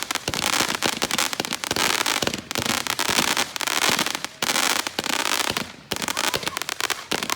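Consumer fireworks going off in quick succession: a dense stream of sharp pops and crackles, broken by three brief lulls.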